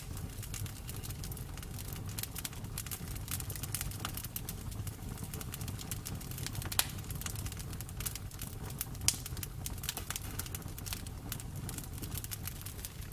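Bonfire burning: a steady low rumble of flames with constant small crackles and snaps of burning wood, and two louder pops around the middle.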